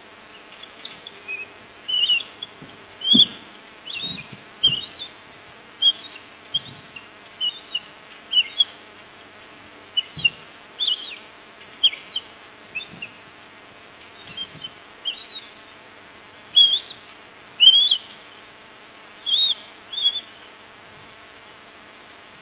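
Short, high-pitched bird chirps repeated irregularly, roughly one or two a second, over a steady low hum.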